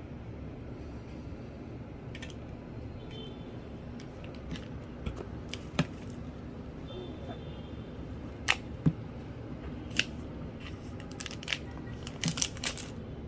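Steady low room noise with scattered light clicks and taps, a handful through the middle and several close together near the end.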